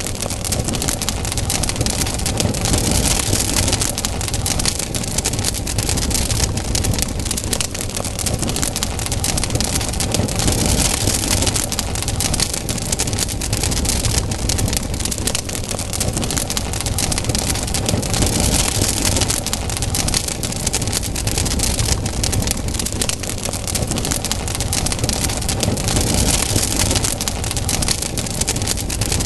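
Campfire burning with a steady low roar and dense, constant crackling and popping of the burning wood.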